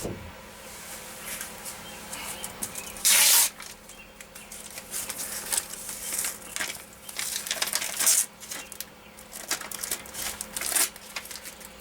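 Peel-and-stick aluminium-foil sound-deadening mat being handled: its backing peeled off and the foil sheet crinkled and pressed onto the van's metal wall, a run of short rustling, tearing scrapes, the loudest about three seconds in.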